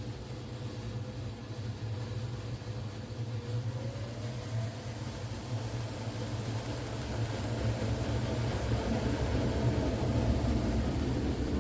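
Bosch front-loading washing machine running with a steady mechanical hum. A faint tone rises about four seconds in, and the hum grows louder toward the end, as when the drum picks up speed.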